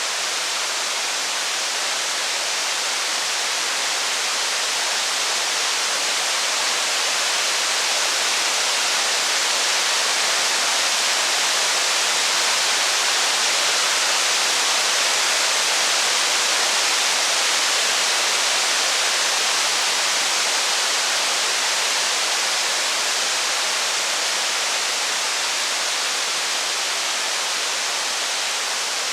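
Steady rain, an even hiss that swells slightly toward the middle and eases again.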